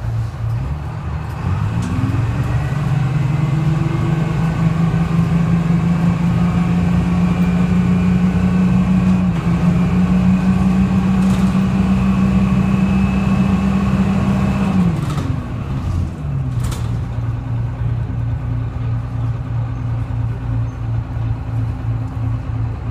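Detroit Diesel 6V71 two-stroke V6 diesel of a GMC New Look bus idling, then rising in pitch as the bus pulls away and holding a steady pitch for about thirteen seconds. About two-thirds of the way through, the throttle comes off and the engine drops back to a steady, pulsing idle.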